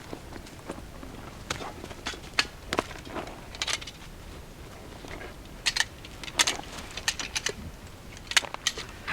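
Irregular crunching and clicking of footsteps along a trail, coming in uneven clusters.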